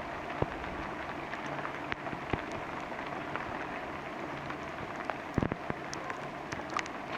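Steady rain falling through the forest, with scattered single drops ticking close by and a few heavier knocks about five and a half seconds in.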